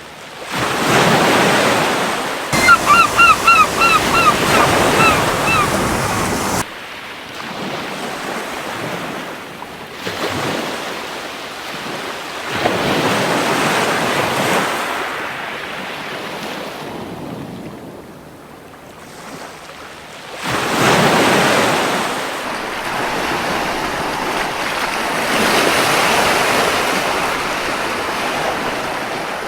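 Ocean waves washing onto a beach in slow swells that rise and fade, with wind on the shore. About two and a half seconds in, a gull gives a quick run of about eight short, falling calls.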